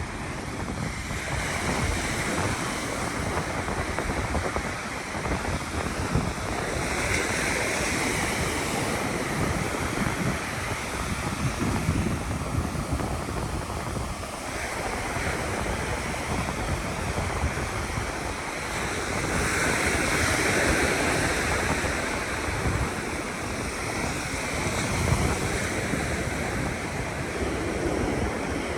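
Ocean surf breaking and washing up the beach, a steady rush that swells louder every ten seconds or so as waves come in. Wind buffets the microphone with an uneven low rumble.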